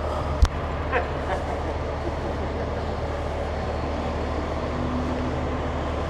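Ladder fire truck's engine running steadily with a low hum, keeping the aerial ladder powered, with a single sharp knock about half a second in.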